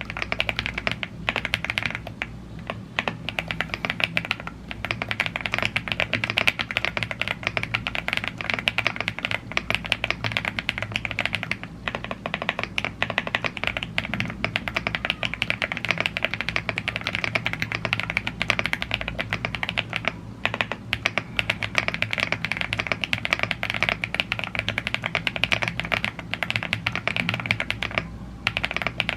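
Continuous fast typing on a YUNZII AL75 gasket-mounted CNC aluminum mechanical keyboard with Blue Grey tactile switches and double-shot PBT keycaps. It makes a dense, even stream of keystrokes, broken by a few short pauses.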